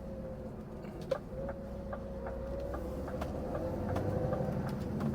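Lorry running, heard from inside the cab: a steady engine hum with a held whine, the low rumble growing a little about four seconds in, and a regular light ticking about two to three times a second.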